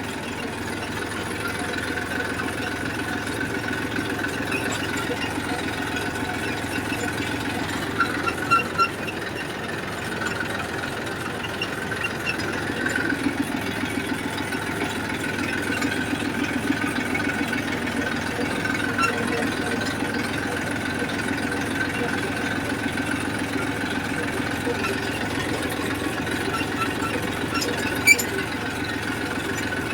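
Massey Ferguson tractor's diesel engine running steadily while driving, with a few short sharp knocks, one a third of the way in and one near the end.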